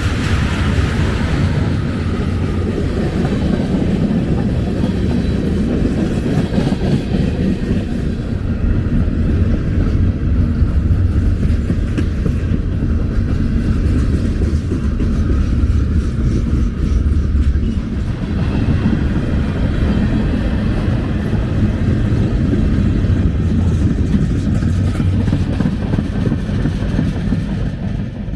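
Freight train rolling past: a steady, loud rumble of the mixed manifest cars' steel wheels on the rails.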